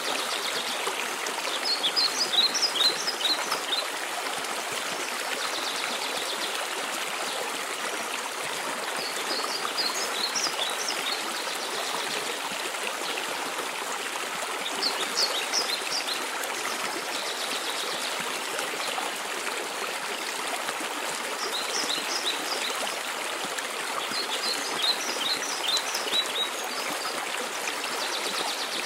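Waterfall's steady rush of water. A small bird sings over it five times, each a short phrase of quick high chirps.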